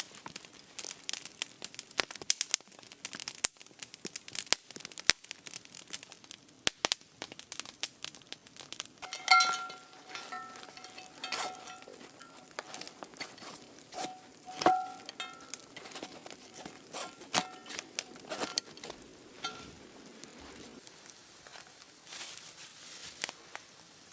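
Crinkling and sharp crackling, with several knocks from about nine seconds in that each ring with a clear tone, like a pot or cup being struck.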